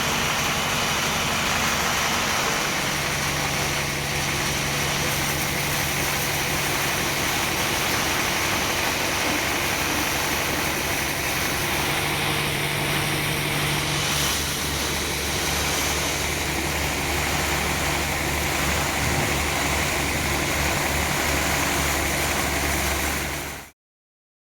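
Sawmill machinery running steadily, an engine's low drone under a broad, hissy noise, with the engine note shifting a couple of times. It cuts off abruptly near the end.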